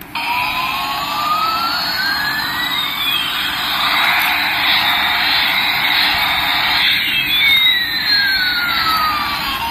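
A battery toy's electronic sound effect: a jet-like rushing hiss with a whistle tone that slowly rises for about three seconds, holds, then falls again near the end.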